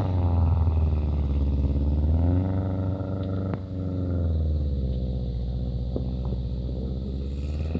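Subaru Forester XT's turbocharged 2.0-litre flat-four engine revving while driving. The engine note drops at first, climbs again about two seconds in, then runs steadier and lower.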